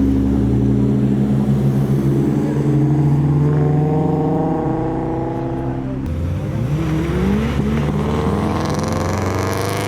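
Car engine accelerating away: its note climbs, drops sharply at a gear change about six seconds in, then climbs again through the next gear.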